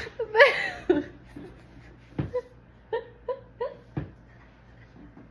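A person imitating a whale with their voice: a gliding, wavering wail near the start, then a string of short, high, whimpering squeaks.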